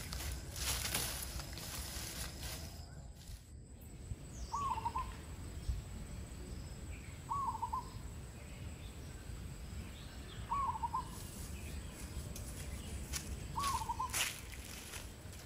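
A bird's short hooting call, repeated four times about every three seconds, over low outdoor background noise. There is rustling of brushed vegetation in the first second or so.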